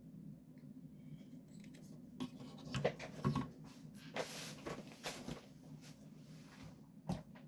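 Handling noises: scraping and rubbing with several sharp clicks, the loudest about three seconds in and one near the end, over a steady low hum.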